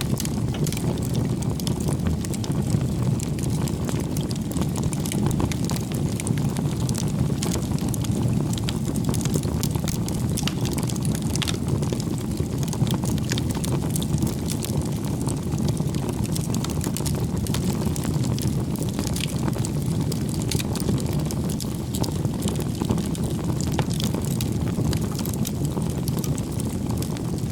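Wood bonfire burning: a steady low rush of flames with frequent sharp crackles and pops throughout.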